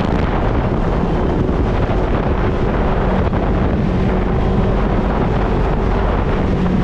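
Off-road vehicle engine running steadily, heavily buffeted by wind noise on the microphone.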